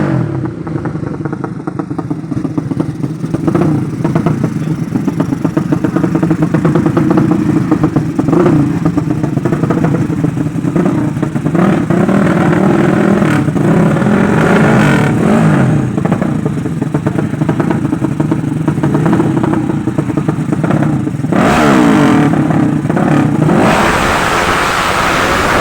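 Race-tuned Yamaha 5TP four-stroke motorcycle engine running hard at high revs, its exhaust note rising and falling as it is revved.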